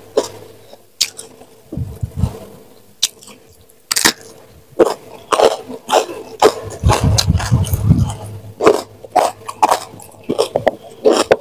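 Close-miked chewing of raw young jengkol (dogfruit) beans: irregular crisp crunches and wet mouth sounds. There is a low rumble lasting about a second near the middle.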